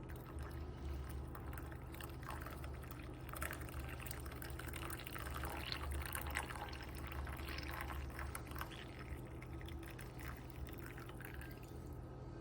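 Hot coffee pouring from a stainless steel French press pot into a cup: an uneven, splashy stream that grows fuller in the middle and tapers off near the end.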